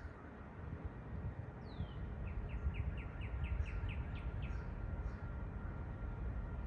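A songbird singing: one falling whistle, then a quick trill of about ten short notes, over a low steady rumble.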